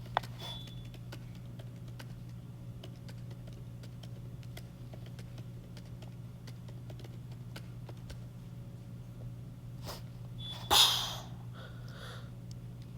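Steady low electrical hum with faint scattered taps, a sharp click at the start, and a short loud breathy burst about eleven seconds in, followed by a softer one.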